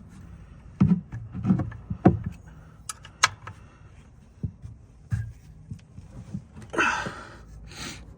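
Irregular metal clinks and knocks from hand tools such as a ratchet and wrench being worked and handled, with a short rustle near the end.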